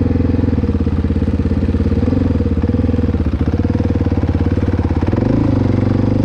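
Dirt bike engine running at a steady throttle while riding through sand. The engine note changes about five seconds in.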